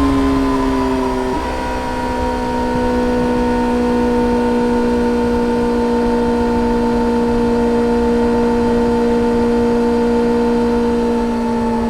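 2013 Yamaha XJ6-S's 600 cc inline-four engine running through a full Black Widow exhaust with no catalytic converter. The note sinks a little, changes about a second and a half in, then holds steady.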